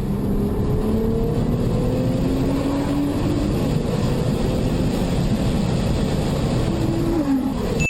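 A car engine runs under steady road rumble. Its note climbs slowly as the car accelerates, then drops away near the end.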